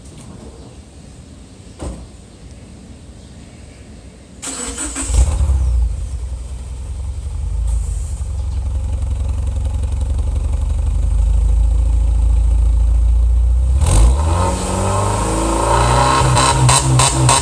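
A Subaru XV's flat-four boxer engine is cranked by the starter after a single click, catches about five seconds in and settles into a deep, steady idle at the exhaust. Near the end it is blipped up and back down several times.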